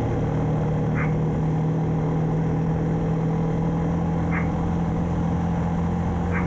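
1994 Yamaha Timberwolf 4x4 ATV's single-cylinder four-stroke engine running steadily under throttle while riding. The engine is beginning to falter and sputter as it loses power.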